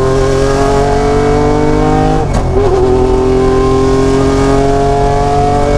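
Lancia Stratos HF's mid-mounted V6 pulling hard under acceleration, heard loud from inside the cockpit with the naturally aspirated intake right behind the seats. The pitch climbs steadily, drops with an upshift about two seconds in, then climbs again.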